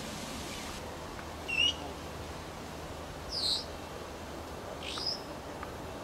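A bird giving short, shrill calls, three of them about a second and a half apart, the middle one loudest.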